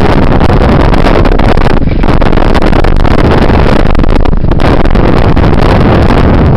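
Heavy wind buffeting the camera microphone while riding a bicycle, a loud steady rushing noise that drowns out everything else.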